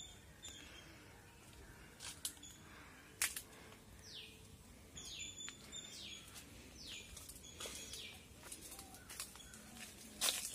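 Birds calling faintly outdoors: short high chirps, with a run of quick downward-sliding notes around the middle. A few brief clicks cut in, the loudest near the end.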